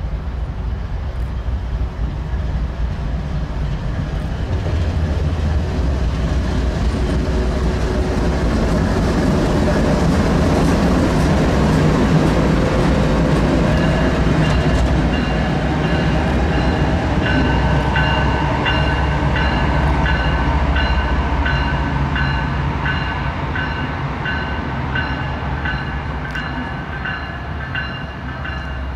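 A Norfolk Southern diesel freight locomotive passing close by, its engine rumble and wheel noise swelling to a peak about halfway through and then easing off. From about the middle on, a bell dings steadily, roughly one and a half strikes a second.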